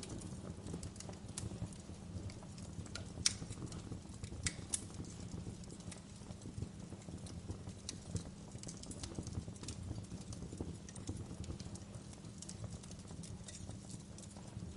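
Wood fire crackling in a fireplace: irregular sharp pops and snaps over a steady low rumble of the flames, with a few louder pops three to five seconds in.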